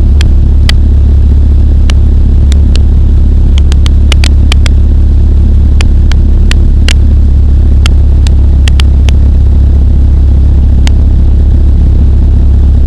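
Pulsar XP microlight's engine droning steadily at cruise in flight, very loud, with scattered sharp clicks over it.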